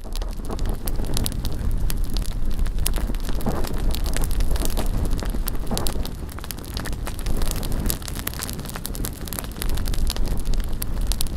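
Bonfire crackling, with many sharp snaps throughout, and wind rumbling on the microphone.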